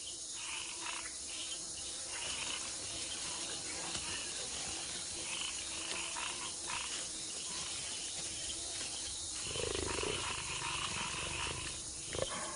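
Rainforest insects chirring steadily, with a low, rough animal growl lasting about two seconds near the end.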